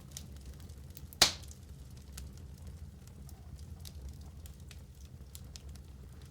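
Fire in a fireplace crackling: scattered small clicks over a low steady rumble, with one loud sharp pop a little over a second in.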